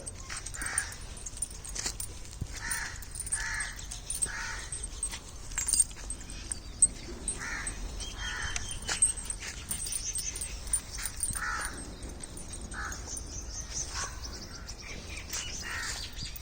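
Short, harsh animal calls repeated about a dozen times at irregular intervals, over a faint steady outdoor hiss.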